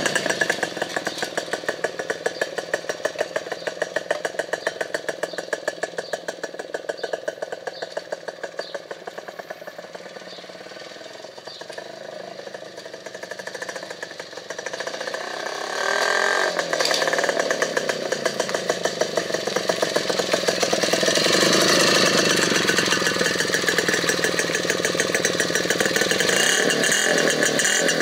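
Custom motorcycle engine running with a steady firing pulse. It fades over the first dozen seconds, swells again with a quick sweep in pitch about sixteen seconds in, and stays loud to the end.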